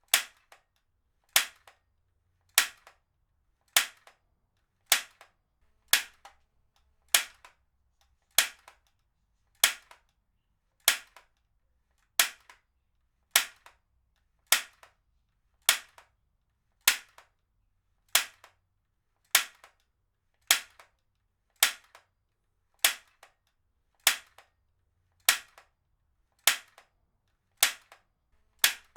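Heavy-duty stapler fired again and again: a sharp snap about every 1.2 seconds, with a much fainter click between shots.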